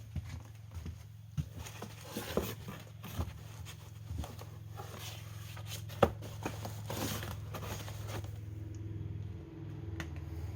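Irregular rustling and small clicks of old paper being handled and leafed through, with one sharp knock about six seconds in.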